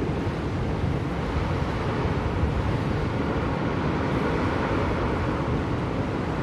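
Blizzard wind blowing steadily, a low, even rushing noise that swells slightly in the middle.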